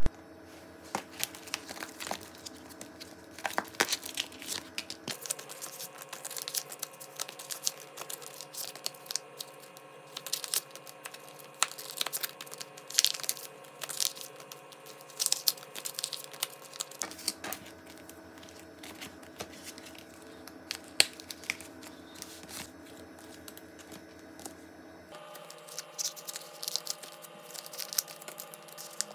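Clear plastic photocard sleeves and collect-book pocket pages crinkling and crackling as cards are slid in and out and the pages handled, many quick irregular crackles and clicks, played sped up.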